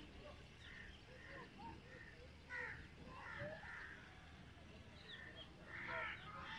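Birds calling: a scatter of short, separate calls, with a few higher chirps about five seconds in.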